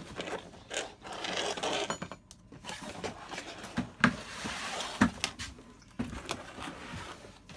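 Handling noise: a stretch of rustling, then several sharp clicks and knocks about a second apart.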